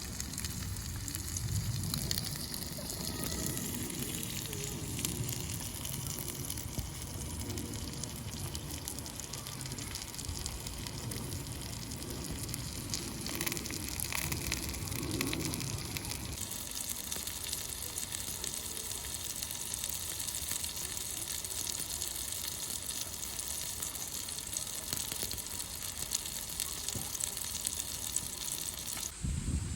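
Wood fire burning in a fire-pit stand, a steady crackle and hiss of burning wood. About halfway through the low rumble drops away and the hiss becomes more even.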